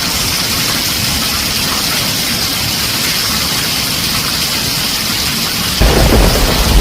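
Heavy rain drumming steadily on a tin roof, a dense even hiss. About six seconds in, a loud, deep rumble of thunder starts and builds over the rain.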